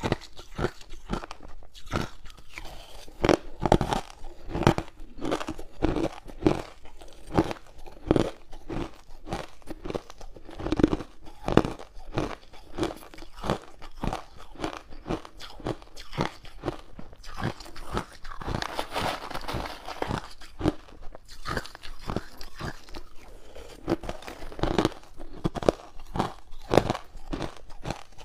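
Close-miked crunching of hard ice cubes as a person bites and chews them, with sharp irregular cracks several times a second.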